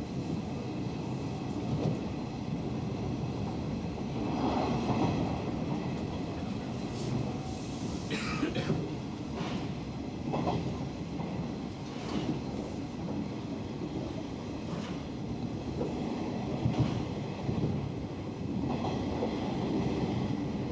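Hanshin Railway limited express running at speed, heard from inside the car: a steady rumble of wheels on rail with scattered knocks and one brief high wheel squeal about eight seconds in.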